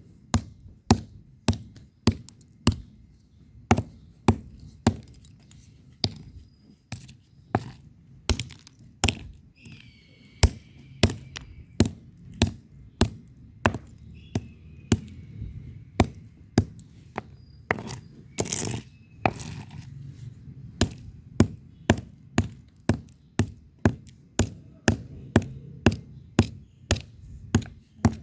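Red bricks being struck against each other: a long series of sharp, clinking knocks, up to about two a second, with a few brief pauses.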